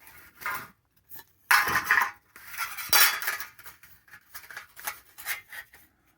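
Thin sheet-metal piece, a formed 20-gauge rocker-panel section, being handled, clinking and rattling in a series of irregular clanks.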